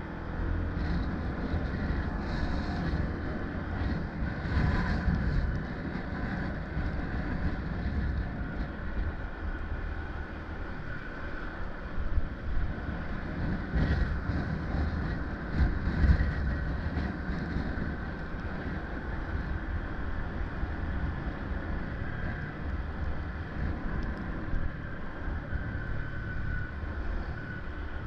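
Wind rumbling on the microphone over the steady drone of a moving vehicle on a ride, with a few louder gusts.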